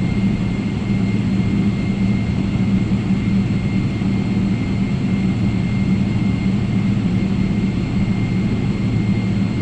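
Steady cabin drone of a Boeing 777's jet engines, heard from inside the passenger cabin: a constant low rumble with a thin, steady high whine over it.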